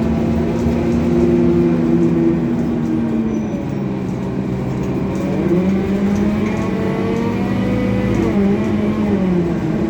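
Scania coach diesel engine running under way, heard from inside the coach: its note holds steady, sags in pitch a few seconds in and climbs back, then drops again near the end.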